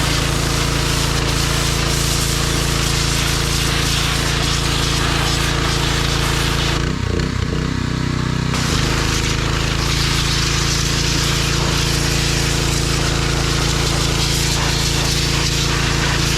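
John Deere 1025R compact tractor's three-cylinder diesel engine running steadily under a noisy haze. About seven seconds in, its note shifts and wavers for a couple of seconds, then settles back.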